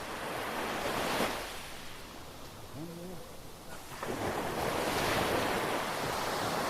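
Ocean surf breaking on a sandy beach: a rushing wash of waves that swells about a second in and rises again from about four seconds in, with wind buffeting the microphone.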